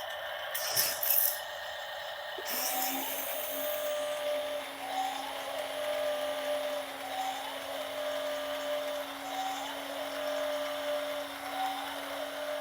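Small electric motor of a remote-control toy dump truck whining steadily, starting about two and a half seconds in. A shorter higher whine rises and settles about every two seconds.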